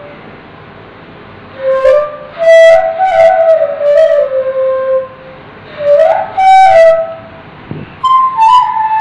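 Bamboo suling flute playing a slow melody in phrases, the notes stepping and sliding between pitches, with short pauses between phrases.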